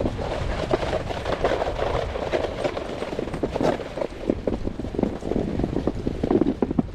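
Snowboard sliding over snow while being towed, a continuous rough scraping full of small crunches, with a low rumble of wind on the microphone.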